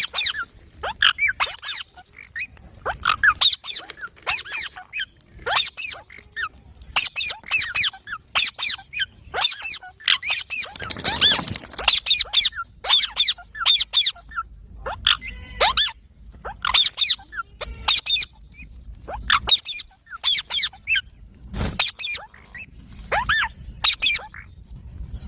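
Pet parrot calling: a long series of short, shrill, high squawks in quick runs, with brief pauses between them.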